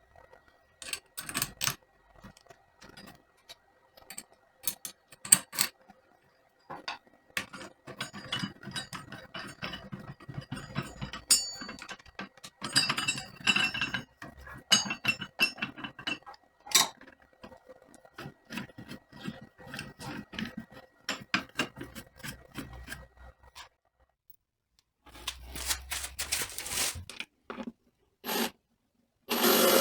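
Metal hardware and hand tools handled on a workbench: irregular clinks, knocks and scrapes, some ringing briefly, with a short pause near the end.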